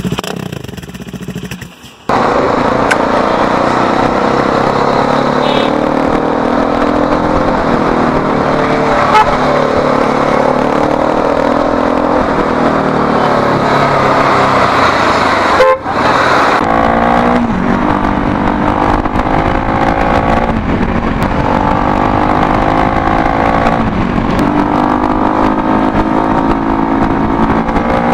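Bajaj Dominar 400's single-cylinder engine running loud through an Akrapovic full-system exhaust with a bend pipe and no catalytic converter. It cuts in abruptly about two seconds in, drops briefly near the middle, then rises and falls in pitch again and again as it is revved or accelerated.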